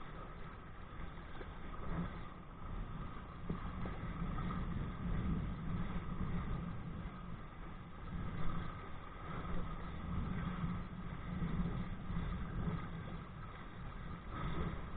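Wind buffeting a body-worn camera's microphone on a kite-towed kayak: a steady, gusting low rumble, with water rushing past the hull.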